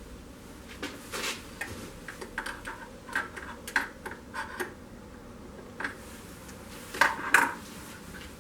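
Irregular light clicks and knocks of small metal parts and tools being handled, a quick run of them in the first half and the two loudest knocks close together near the end.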